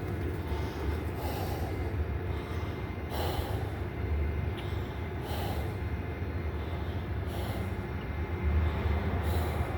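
Outdoor city background: a steady low rumble of distant traffic, with a soft hiss recurring about every two seconds.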